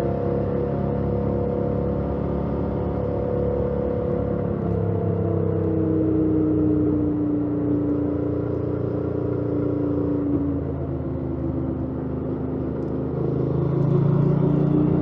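2018 Yamaha MT-07's 689 cc parallel-twin engine on its stock exhaust, running under way while riding. Its note shifts about five seconds in and then falls slowly for several seconds, before rising and getting louder near the end.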